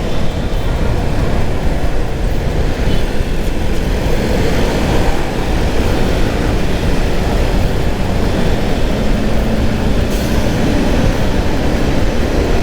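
Steady riding noise from a motorcycle in moving traffic: a dense rush of wind on the microphone, with the engine and the surrounding traffic underneath.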